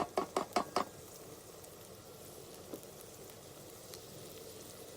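Onions and chilli frying on high heat in a pan, a spoon stirring them in quick strokes about five a second for the first second, then a faint steady sizzle.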